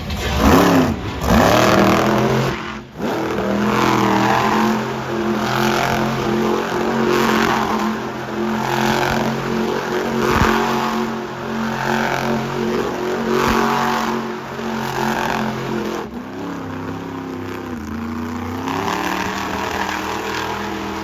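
Monster truck engine revving hard while the truck spins donuts. The revs surge and fall back about every second and a half, with a sharp rise and fall in pitch near the start, and the engine settles to a lower, steadier note for the last few seconds.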